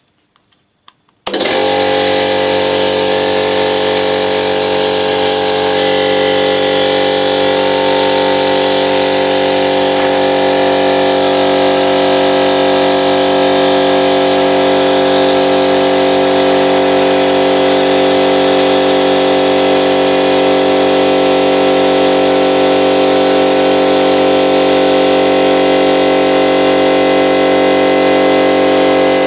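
Einhell BT-AC 230/24 air compressor starting abruptly about a second in and then running steadily with an even machine hum. A high hiss in the sound drops away about four seconds after it starts.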